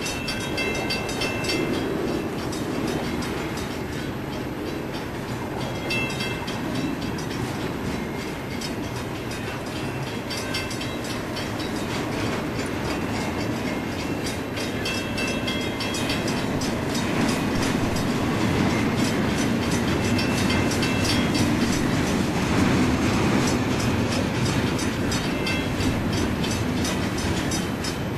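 Union Pacific double-stack intermodal train's well cars rolling past at close range: a steady rumble with wheel clatter over the rails, growing louder in the second half.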